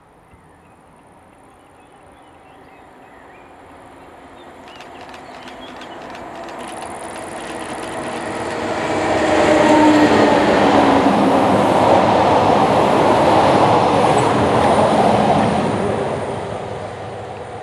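A train approaching and passing on the line. It grows steadily louder for about ten seconds, stays loud for about five seconds as it goes by with a dense rushing rail noise, then fades away near the end.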